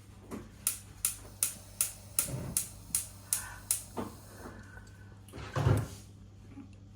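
A quick run of about nine sharp clicks, roughly three a second, then a few softer knocks and one heavier thud near the end.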